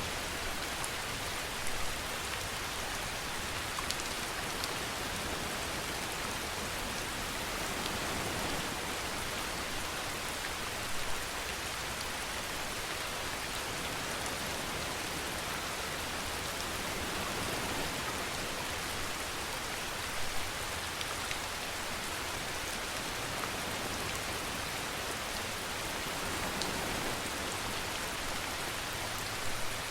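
Steady rainfall, a constant even hiss of drops on surfaces, with a few louder drops or splashes standing out now and then.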